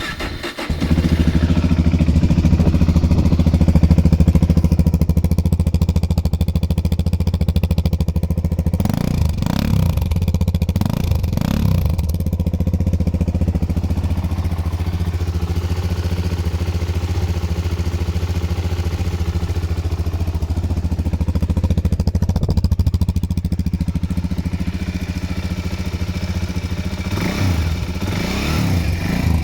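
Suzuki DR-Z400S's single-cylinder four-stroke engine catching about a second in on a cold start, then idling steadily. The throttle is blipped a few times around the middle and again near the end, the revs rising and falling quickly.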